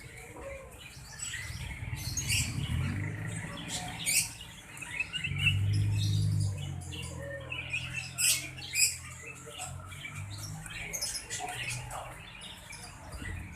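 Sirtu bird chirping and trilling in quick, excited bursts, the agitated chattering bird keepers call gacor. A low hum rises under it in the middle and fades again.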